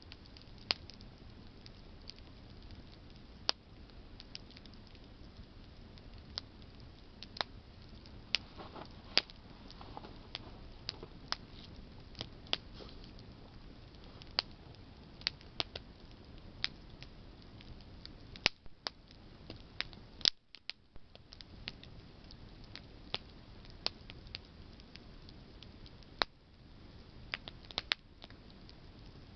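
Wood campfire burning: irregular sharp crackles and pops from burning branches over a steady low hiss and rumble of the flames.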